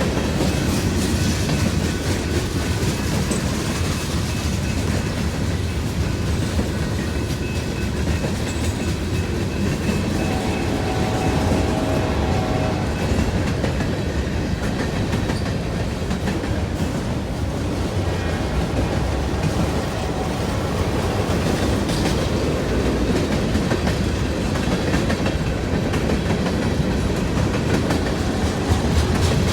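Norfolk Southern freight train's cars rolling steadily past on the track: a continuous rumble of steel wheels on rail.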